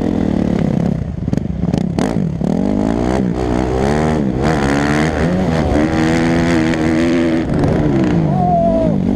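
Motocross dirt bike engine accelerating through the gears, its pitch climbing and dropping at each shift, then holding steady before falling away near the end. A few sharp clicks come early on.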